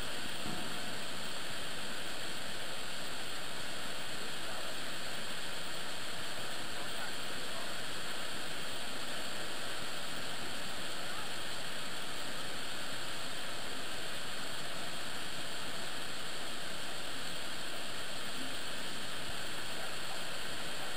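Niagara Falls: a waterfall's steady, unbroken rush of falling water.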